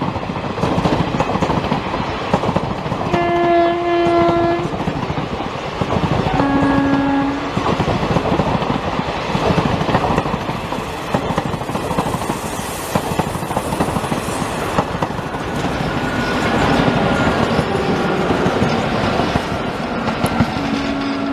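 Indian Railways express coaches rolling past at close range on the Bhor Ghat climb, with steady wheel clatter, ending with a WCAM3 electric locomotive going by. A locomotive horn sounds about 3 seconds in for over a second, then a shorter, lower blast about 6 seconds in, with another horn near the end.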